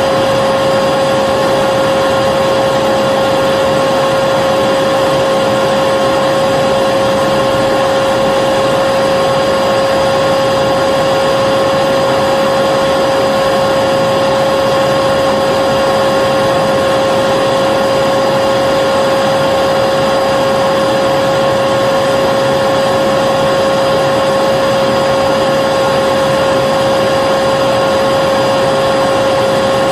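Vacuum cleaner running steadily: a constant motor whine over a rush of air, holding the same pitch and level throughout.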